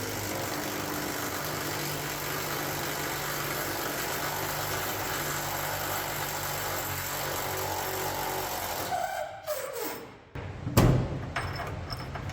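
A machine runs steadily with a low hum and a hiss. About nine seconds in it winds down with a falling whine and stops. A loud knock follows about a second later.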